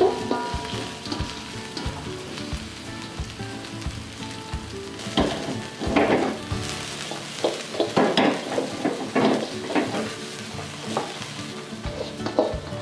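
Sliced garlic and shallots sizzling in hot oil in a metal wok, stirred with a slotted spatula that scrapes against the wok in short strokes, more often in the second half.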